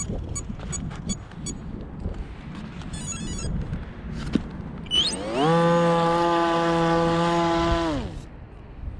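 A small brushless electric motor and propeller on an RC model: low wind rumble and a few clicks, then about five seconds in the motor spins up with a rising whine, holds a steady pitch for about three seconds and winds down.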